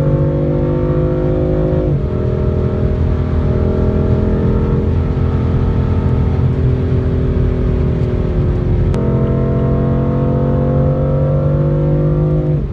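A car engine pulling under acceleration, its pitch climbing slowly and dropping sharply about two seconds in and again near the end as it shifts up through the gears.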